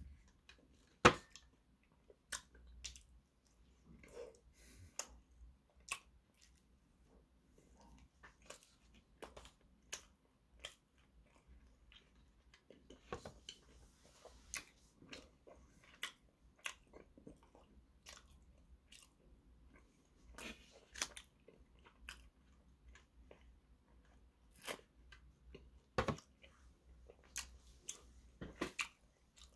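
Close-up chewing of a soft red-bean bun, with irregular wet mouth clicks and smacks; the sharpest click comes about a second in, another strong one near the end.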